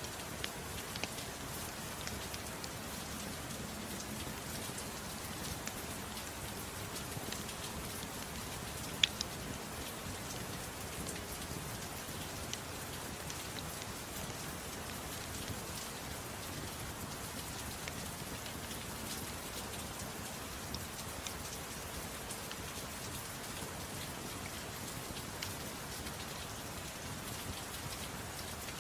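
Steady soft rain, with scattered faint ticks and one sharp crack about nine seconds in.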